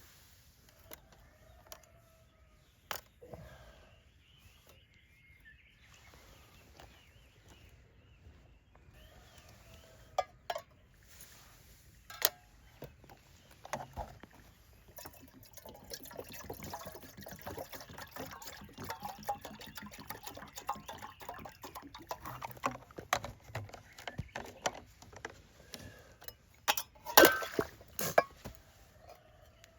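Camp cooking sounds: water being poured, with sharp clinks and knocks of cookware, busiest through the second half and loudest near the end. A few faint bird calls near the start.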